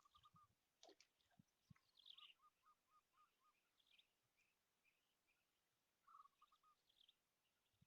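Faint bird calls: series of short, quickly repeated chirps with higher twittering notes over them, plus a sharp click about a second in and a couple of soft low knocks.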